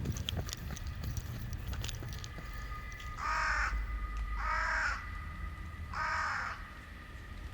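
A bird calling three times, each call about half a second long, with the calls a little over a second apart.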